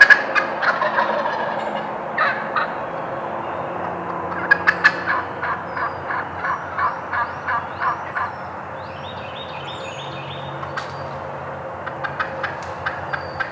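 Wild turkeys calling: short bursts of gobbling and a run of about a dozen evenly spaced turkey notes in the middle, with songbirds chirping faintly higher up.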